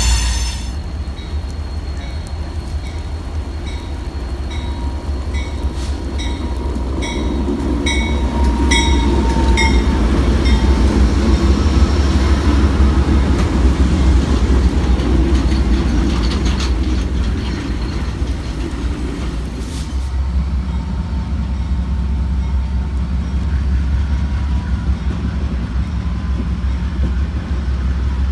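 Freight train rolling past with a steady low rumble. From about 4 to 11 seconds in, a bright ding repeats about twice a second.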